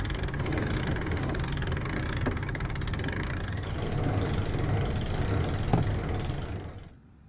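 An engine running steadily at a low, even rhythm, cutting off suddenly near the end.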